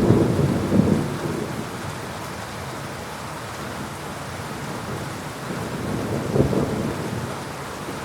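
Thunderstorm with heavy rain falling steadily. Low rumbles of thunder swell in the first second and again about six and a half seconds in.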